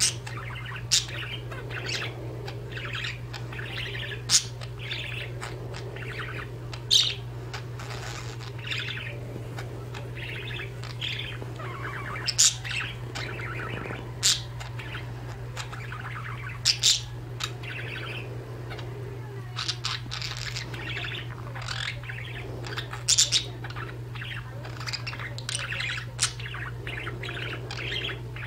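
Pet budgerigars chattering with a continuous warbling twitter, broken every second or two by sharp, loud, high chirps. A steady low hum runs underneath.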